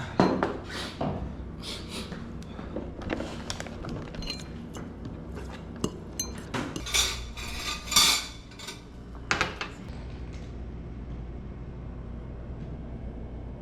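Plates and cutlery clinking and clattering during a meal, a scatter of short knocks and clinks that stops about ten seconds in, over a low steady hum.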